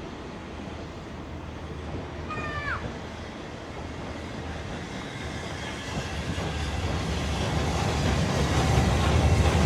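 A heritage railway train running and growing steadily louder as it approaches, a low rumble with rising noise in the second half. A short, falling whistle-like tone sounds about two seconds in.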